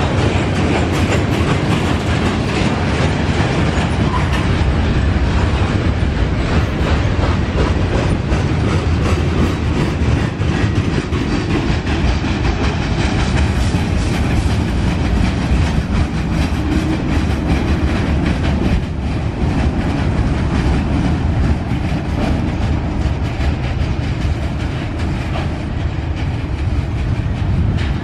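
Freight cars of a long mixed freight train rolling past: a steady, loud rumble of steel wheels on rail with a running patter of clicks as the wheels cross rail joints.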